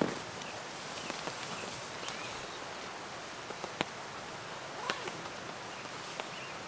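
Steady outdoor background hiss of wet bush after rain, with a few faint bird chirps and a couple of light sharp ticks.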